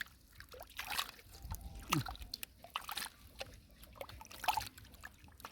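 Shallow pond water sloshing and splashing irregularly as it is worked by hand, with a short falling vocal sound about two seconds in.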